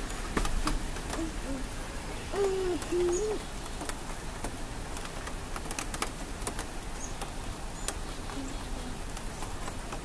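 Soft, low bird coos: a few short cooing notes in the first three seconds, the last two close together, then only scattered faint clicks.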